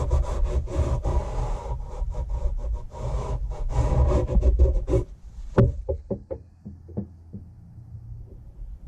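Rhythmic back-and-forth rubbing or scraping strokes, about four a second, by hand for about five seconds, then a few separate clicks and knocks.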